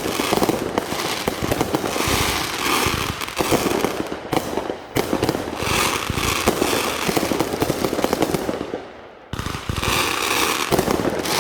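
Fireworks going off in a dense, rapid crackling barrage of many pops, with a brief lull about nine seconds in before it starts again.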